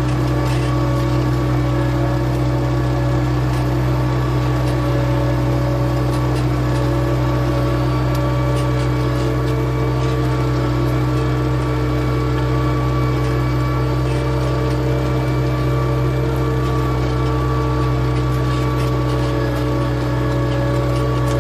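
A4800 tractor's engine running at a steady speed, a constant drone with no change in pitch or level.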